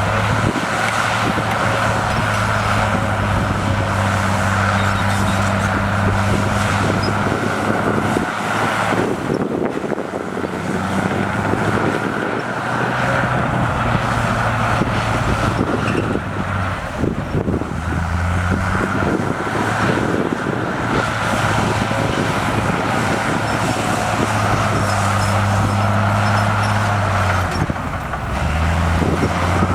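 Komatsu crawler bulldozer's diesel engine working, its pitch stepping up and down several times as the load comes on and eases off.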